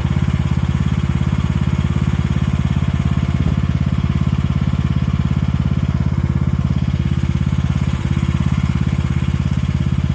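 The 15-horsepower gasoline engine of an AGT 1-ton mini excavator running steadily at throttle, with a fast, even firing beat.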